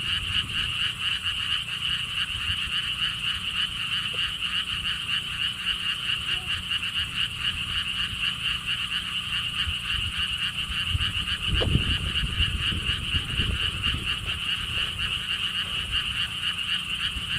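A dense chorus of many frogs calling together, a fast, unbroken trill of pulsed croaks at a fairly high pitch. About twelve seconds in, a brief low rumble sounds under the chorus.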